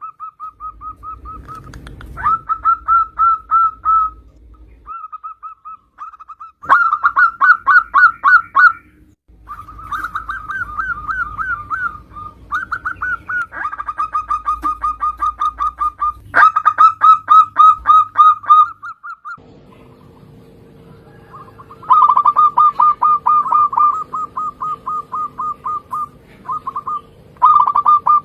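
Zebra doves (perkutut) calling loudly: bursts of rapid staccato cooing notes, each run lasting a few seconds, repeated with short pauses between.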